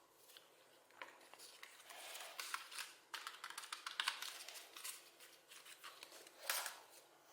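A mechanical keyboard being worked on by hand: a busy run of small plastic clicks and scrapes, with a sharper rasp near the end.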